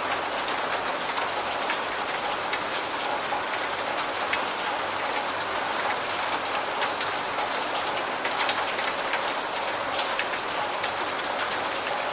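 Steady rain: a dense, even hiss with many small drop impacts ticking through it.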